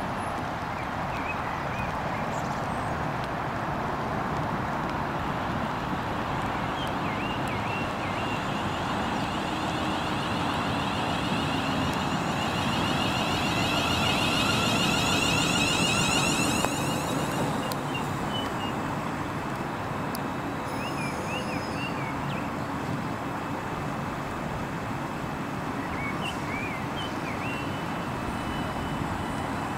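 A train running through the station: a broad rumble that builds to a peak with a high whine over it, then falls away sharply about seventeen seconds in.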